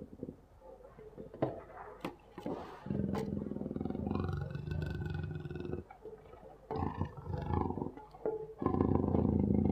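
A big cat growling. Two long, low, rasping calls, one starting about three seconds in and lasting about three seconds and another starting near the end, with shorter growls between.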